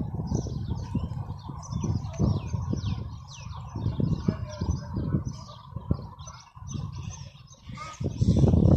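Small birds chirping continuously, a quick run of short falling chirps, over a low, uneven rumble.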